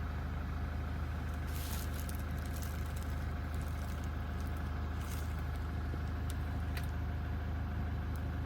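Steady low drone of a running vehicle engine, with a few faint clicks.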